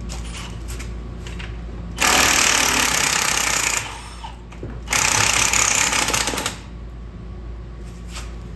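Impact wrench hammering in two bursts of just under two seconds each, working at a tightly torqued bolt.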